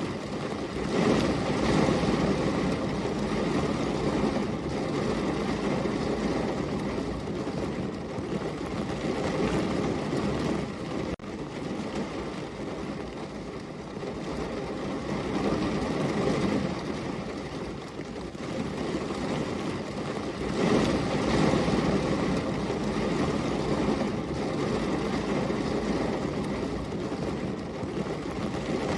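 Rain falling steadily, an even hiss that swells and eases every several seconds.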